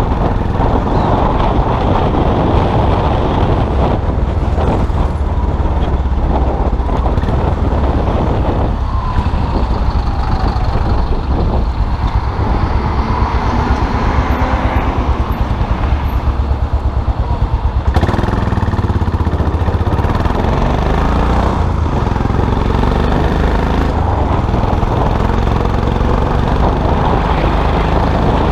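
Custom motorcycle's engine running while riding through traffic, its note rising and falling with the throttle.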